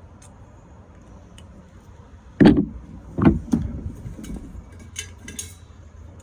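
A few sudden knocks over a steady low rumble. The loudest comes about two and a half seconds in and another strong one about a second later, followed by lighter knocks and sharp clicks.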